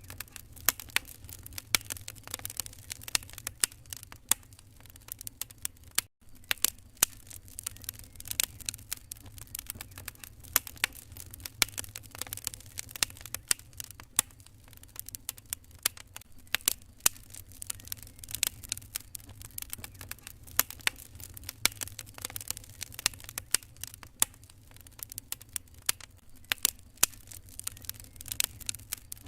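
Wood fire crackling in a fireplace: irregular sharp pops and snaps over a low steady rumble, with the sound cutting out for an instant about six seconds in.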